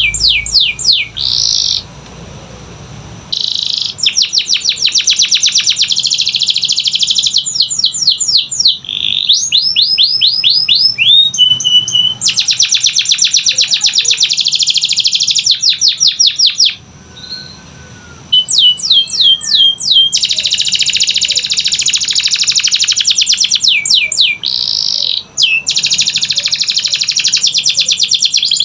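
Domestic canary singing a loud, continuous song of rapid trills and rolls mixed with quick down-sweeping notes, broken by a few short pauses.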